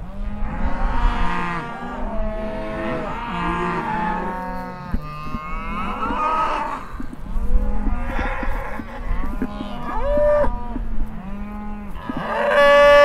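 Several cattle mooing, their calls overlapping, one long low moo held beneath shorter higher ones, with a loud moo near the end.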